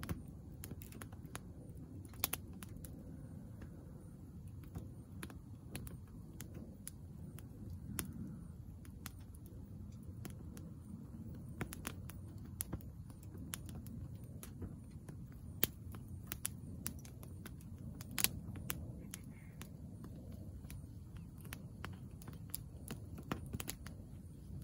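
Steady low rumble with irregular sharp clicks and taps scattered throughout.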